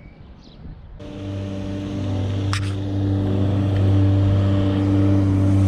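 A vehicle engine running with a steady low hum that grows louder; it starts abruptly about a second in, and there is one short click midway.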